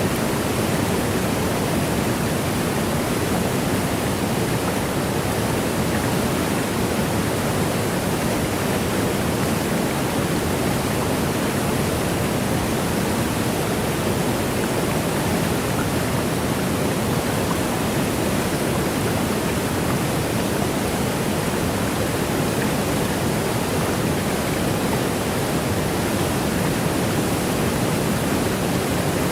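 Waterfall: water rushing down in a steady, unchanging rush with no other sounds.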